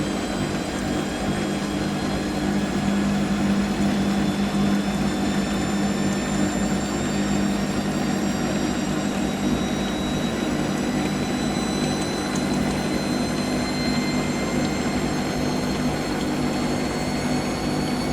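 Hoover AAA160 front-loading washing machine spinning its drum in an intermediate spin between rinses: a steady motor and drum hum with a high motor whine that slowly rises in pitch as the drum gathers speed.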